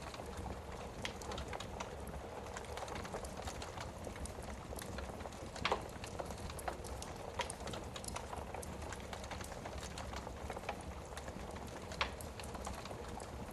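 Wood fire burning in a fireplace: a steady hiss of flames with frequent small crackles and a few sharper pops, the loudest about six seconds in and again near the end.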